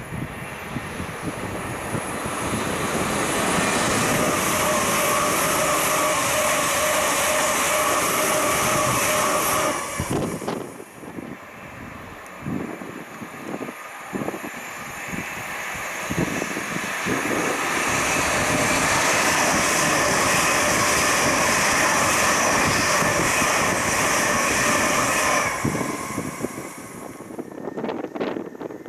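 Two passenger trains passing at speed, one after the other: each builds to a loud rush of wheels and air with a steady whine, then drops off sharply, the first about ten seconds in and the second near the end.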